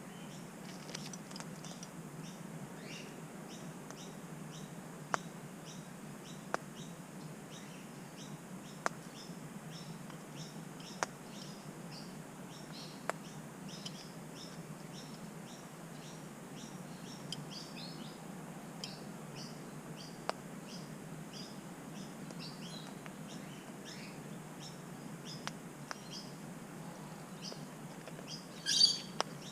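Birds chirping throughout in short high calls, with sharp clicks every couple of seconds and one louder harsh call about a second before the end.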